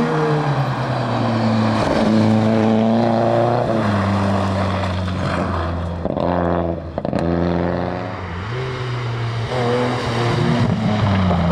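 Rally car engine revving hard and shifting up through the gears, the pitch climbing under throttle and dropping at each change, with a sharp crack about seven seconds in.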